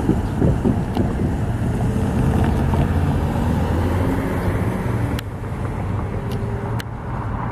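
Freight train pulling away behind an SD40-2 diesel locomotive: a steady low engine drone and rolling rumble, with wind buffeting the microphone.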